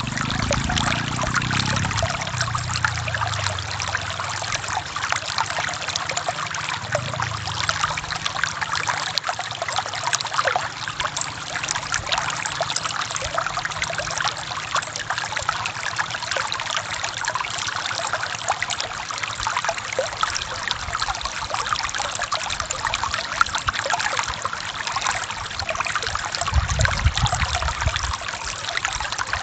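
Forest stream running steadily over rocks, a dense trickling and splashing with occasional low gurgles.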